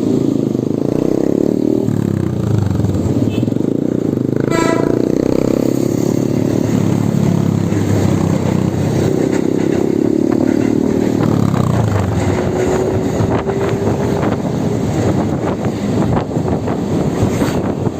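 Road vehicle noise from riding in traffic: engine and motor tones that rise and fall over a steady rush. There is a brief horn-like tone about four and a half seconds in.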